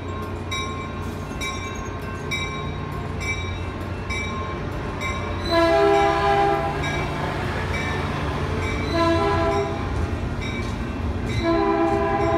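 Bell dinging steadily about twice a second, then a Caltrain train horn sounding four chord blasts, long, long, short, long: the grade-crossing signal. A low train rumble runs underneath.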